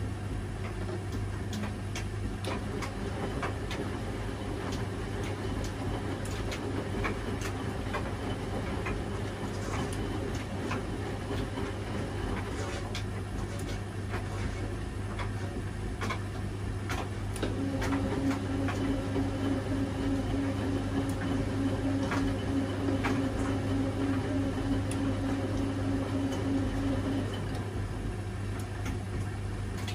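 Washing machine running a wash cycle: a steady hum with scattered clicks and light knocks as the drum turns the laundry. A steady motor tone comes in about halfway through and stops about ten seconds later.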